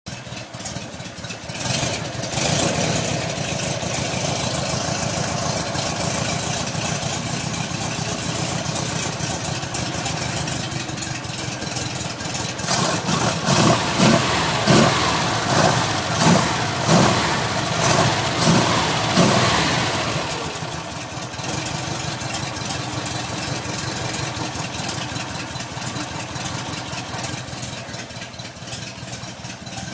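1961 Porsche 356's 60 hp Normale air-cooled flat-four engine being warmed up. It comes in loudly about two seconds in and runs steadily at idle. From about thirteen to twenty seconds in it gets a string of quick throttle blips, then settles back to idle.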